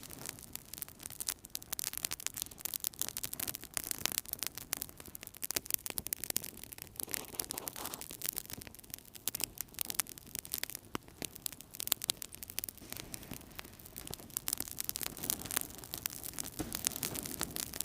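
Wood fire burning in a fireplace, crackling steadily with many small sharp pops over a low hiss of flames, which swells softly twice.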